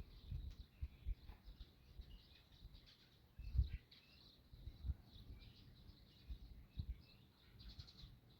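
Small birds chirping on and off, high and scattered. Irregular dull low thumps sound underneath, the loudest about three and a half seconds in.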